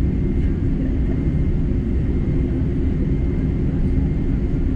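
Boeing 747-8 heard from inside the cabin on the ground, its GEnx engines running at low thrust under a steady deep rumble, with a faint steady high whine over it.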